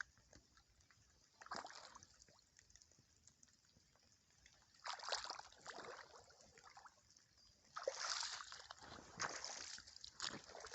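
Rubber boots stepping through wet ground: several separate wet, splashy steps, spaced irregularly a second or a few seconds apart.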